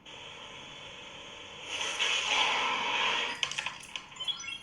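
A hiss that swells about two seconds in and cuts off about a second and a half later, followed by a few short clicks.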